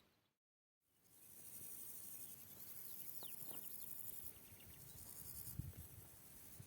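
Faint steady high-pitched insect chorus, such as crickets, with a few short descending bird chirps in the middle and some soft low thuds near the end. The sound comes in after a moment of complete silence.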